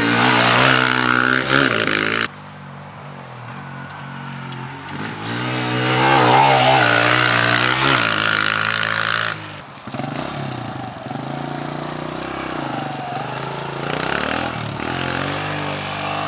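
Pit bike engine revving hard, its pitch climbing through the gears. It cuts off abruptly about two seconds in, comes back loud and climbing again around the middle, then goes on as a quieter engine note that rises and falls.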